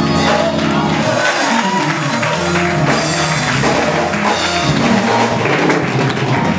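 Gospel band music playing, with held chords and drums.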